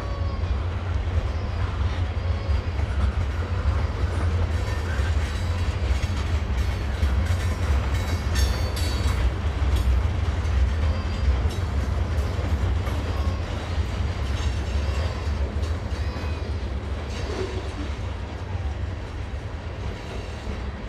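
Freight train rolling along the track with a steady heavy rumble, and brief high metallic squeals from the wheels about halfway through.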